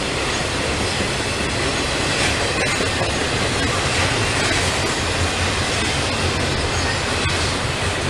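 Freight train cars rolling past close by: a steady, loud rush of steel wheels on rail with no break.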